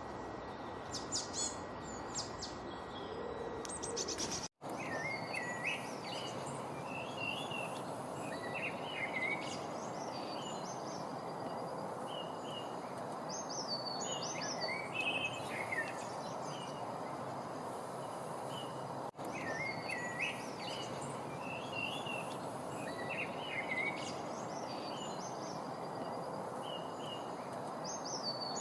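Songbirds singing over a steady background hiss. Quick high chirps for the first few seconds, then a brief gap about four seconds in, after which short whistled phrases rise and fall, repeating every few seconds.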